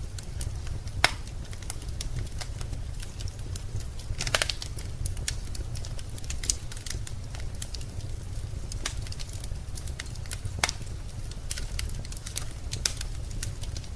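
Wood fire crackling in a fireplace: irregular sharp snaps and pops over a steady low rumble, with a louder pop about a second in and a quick cluster of pops around four seconds in.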